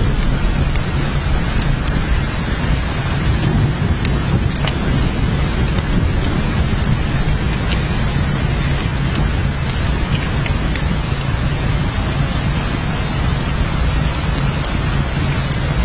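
Steady heavy rain, an even hiss with scattered sharp drop ticks over a constant low rumble.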